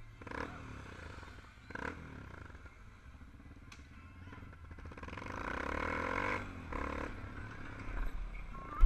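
Motorcycle engines running, one growing louder around the middle and then fading away, over a steady low rumble. A sudden loud thump comes right at the end.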